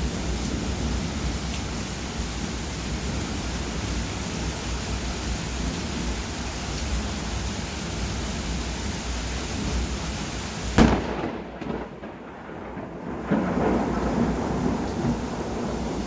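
Steady rain with low rumbling thunder. A sharp crack about two-thirds of the way through is the loudest moment, after which the rain's hiss drops away for a couple of seconds, then comes back.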